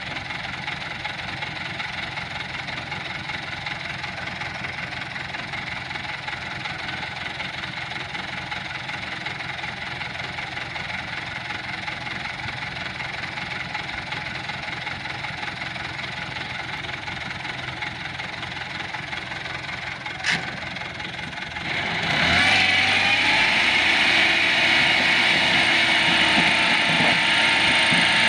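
Toyota Dyna dump truck's engine idling steadily, then revved up about 22 seconds in and held at high revs for several seconds. A single sharp click comes shortly before the revving.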